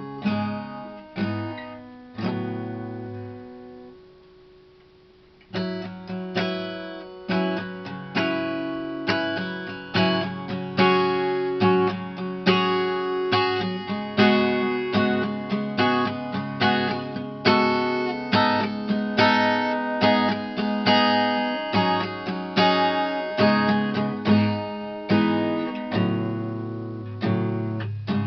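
Acoustic guitar strumming chords, with no singing. About two seconds in, a chord is left to ring and fades almost to nothing, and the strumming starts again about five and a half seconds in.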